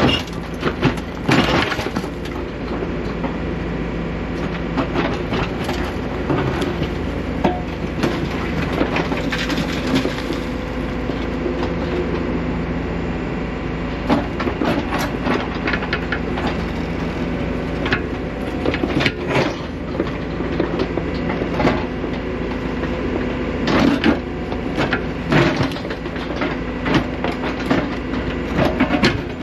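Excavator's diesel engine running steadily while it digs, with frequent knocks and scraping crunches of the bucket in rock and gravel.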